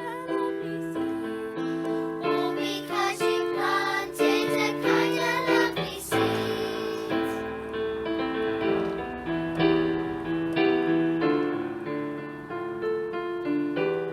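Piano music: a melody moving note by note over held chords, busier for a few seconds in the first half.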